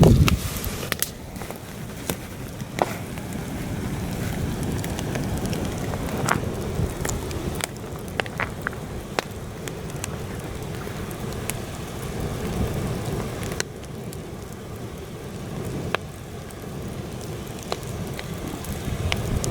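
Campfire crackling, with sharp pops scattered irregularly, over a steady low rumble of heavy wind on the microphone. A loud gust thumps in at the very start.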